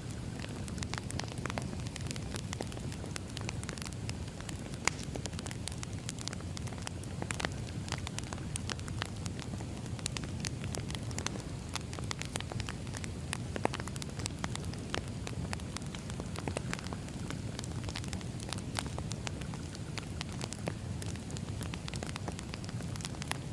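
Wood fire burning steadily: a low rush of flame with frequent, irregular pops and crackles from the burning logs.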